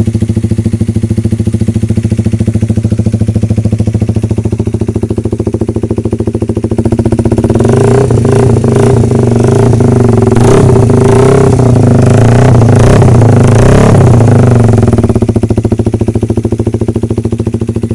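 Honda CB motorcycle engine running through a non-original aftermarket RCB muffler and header pipe, idling with a steady pulsing exhaust beat. About seven seconds in it is revved up, blipped several times, and then drops back to idle.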